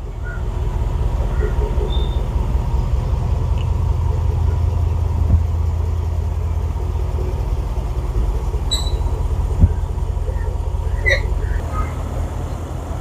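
Range Rover SVR's 5.0-litre supercharged V8 running with a steady low rumble, with a few brief clicks and knocks over it.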